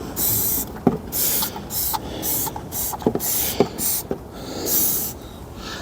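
Pressure washer spraying into a car's engine bay: a hiss that cuts in and out about every half second, with a few sharp clicks.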